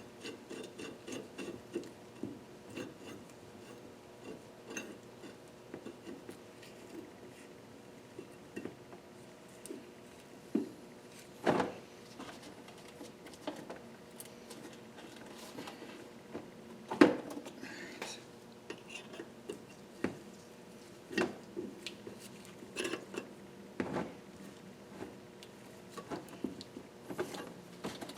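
Irregular light metallic clinks and taps of hand tools and parts on a cylinder head being worked on, with a few sharper knocks now and then.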